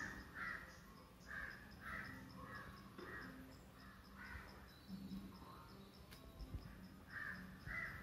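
A bird calling with a run of short, harsh caws, about two a second, a pause in the middle, then two more caws near the end.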